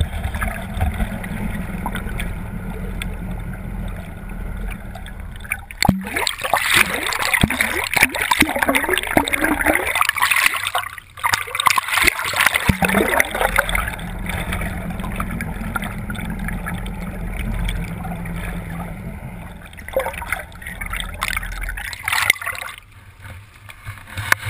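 Water splashing and gurgling loudly around a camera dipped from a moving motorboat, in two spells, the first about six seconds in and lasting several seconds, the second shorter, near the end. Between them runs the boat's steady low engine hum.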